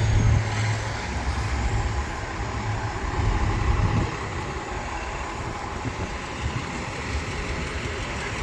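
Street traffic with a vehicle engine idling close by. The engine's low hum drops away about four seconds in, leaving steady traffic noise.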